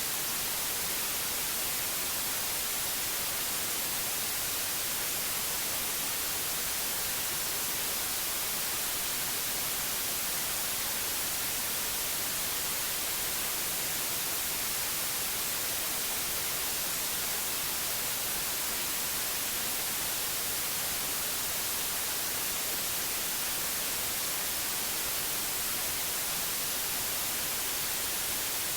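Steady white noise: an even, bright hiss that stays the same throughout.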